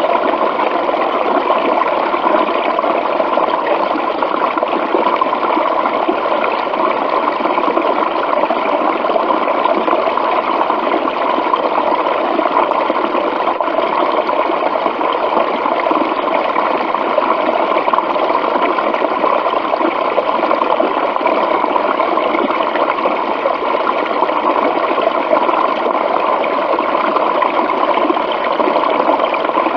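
Running water, a stream or small waterfall, rushing and splashing steadily without a break.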